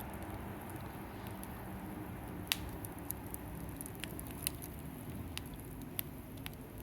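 Wood fire of avocado branches and scrap lumber burning in a fire stand: a steady low rush with scattered sharp crackling pops, the loudest about two and a half seconds in.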